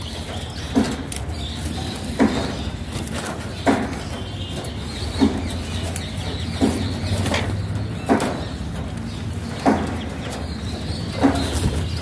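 A caged bird giving a short, low call over and over, eight times at an even pace of about one every one and a half seconds, over a steady low hum.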